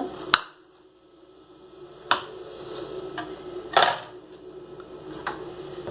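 Knife cutting a large garlic clove into pieces on a cutting board: a few separate sharp knocks, a second or two apart, over a faint steady hum.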